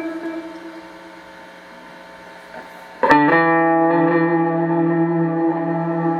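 Clean electric guitar through a Boss RV-6 reverb pedal and a Boss GE-7 equalizer: a chord fades away into a long reverb tail, and about three seconds in a new chord is struck and left ringing.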